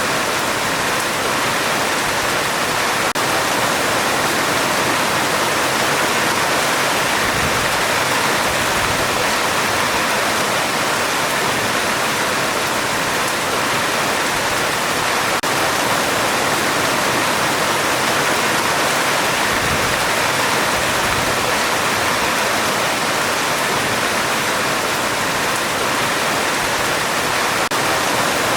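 Heavy rain falling steadily on a metal roof, a dense, even hiss.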